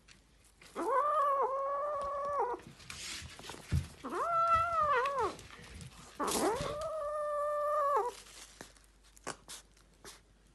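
A kitten giving three long, drawn-out meows, each rising at the start and sliding down at the end, with a few faint clicks between them.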